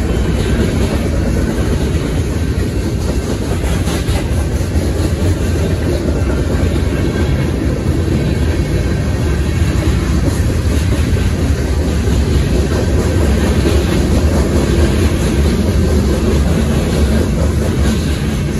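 Freight cars of a long train (covered hoppers, tank cars and boxcars) rolling steadily past, their steel wheels rumbling and clattering over the rail.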